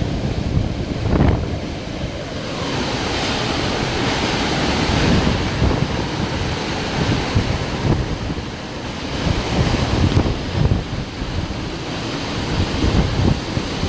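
Storm wind rushing steadily, with gusts buffeting the microphone in irregular low surges.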